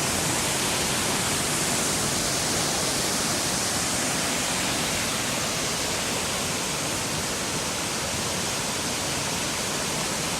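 Waterfall running close by: a steady, even rush of falling water that holds constant throughout.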